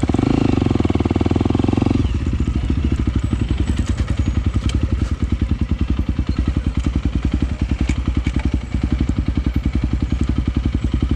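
Honda CRF300L single-cylinder dirt bike engine running with a steady, rapid pulse; it is louder and higher for the first two seconds, then settles to a lower, even beat.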